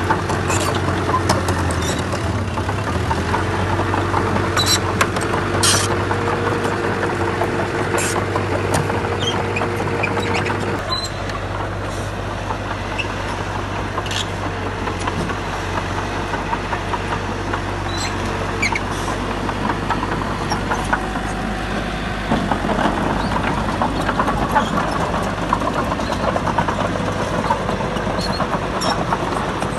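Diesel engine of heavy earthmoving machinery running steadily, with scattered short clanks and knocks. The engine note shifts about eleven seconds in.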